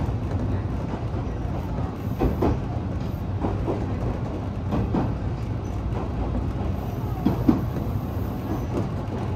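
Alpico Kōtsū electric train running, heard from inside the carriage: a steady low rumble with occasional wheel clicks over rail joints.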